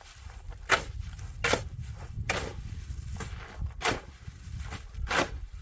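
A run of short scraping or scuffing strokes, roughly one a second, over a steady low rumble.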